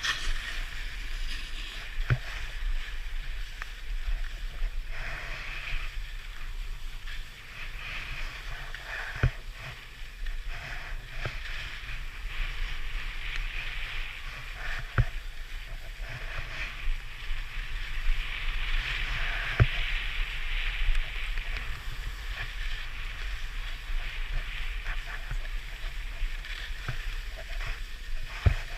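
Skis carving and sliding on packed snow: a steady scraping hiss that swells and eases through the turns, with a few sharp knocks.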